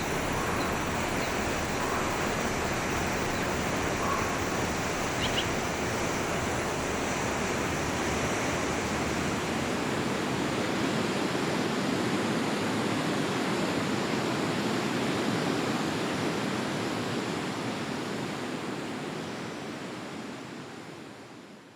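Forest stream flowing in a steady rush, with a few faint bird chirps in the first few seconds; the sound fades out over the last few seconds.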